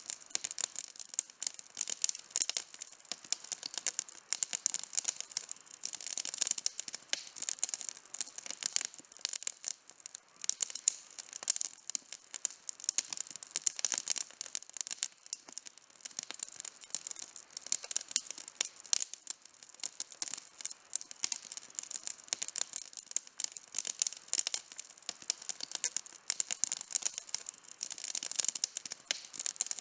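Wood campfire burning and crackling: a dense, continuous stream of sharp, mostly high-pitched crackles with no low rumble.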